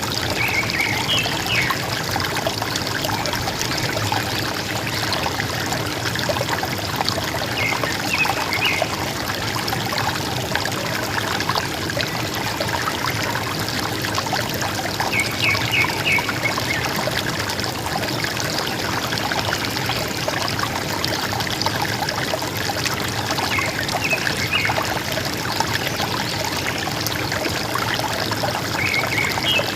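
River water flowing and gurgling steadily, with a bird repeating a short, high chirping phrase about every seven seconds.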